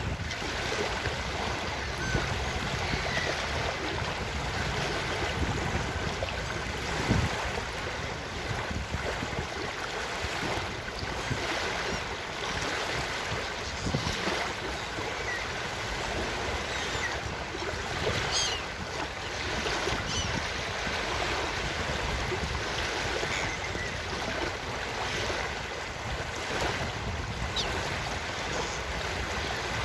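Ocean surf washing onto a beach: a steady rush of waves that swells and eases, with some wind.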